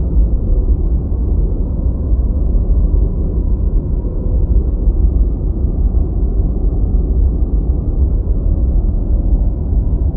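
Steady deep white noise: an even, rushing rumble heaviest in the bass, with no high hiss.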